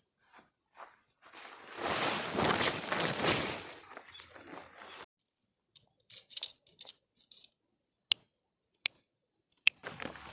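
Handling noises: a few seconds of loud rustling and crinkling, then after a pause several short, sharp clicks.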